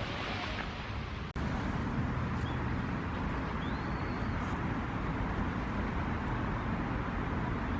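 Steady low rumble of outdoor background noise, with one short high chirp that rises and falls about four seconds in.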